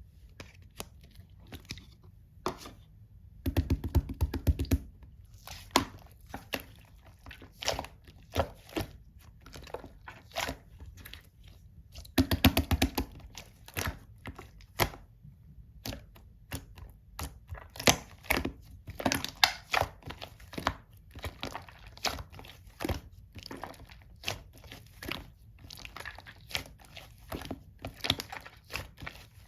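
Slime being squeezed and pressed by hand, giving irregular sticky clicks and small pops of trapped air, with two longer crackling stretches about four and twelve seconds in.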